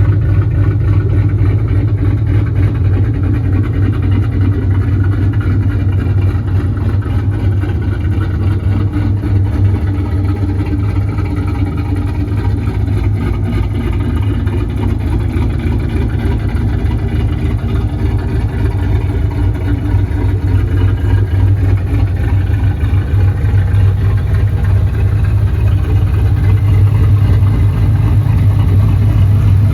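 Cammed, turbocharged 2007 Ford Mustang GT's 4.6-litre three-valve V8 idling through its exhaust with a choppy cam lope, steady throughout and getting a little louder near the end.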